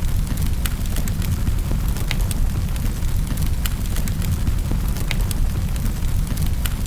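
Fireplace fire crackling: a steady low rumble with sharp, irregular pops and crackles, a few each second.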